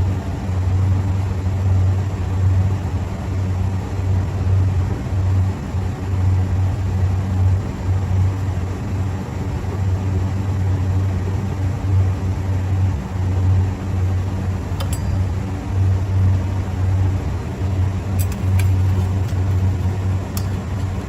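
Steady low machine hum at an even level, with a few light clicks in the last few seconds.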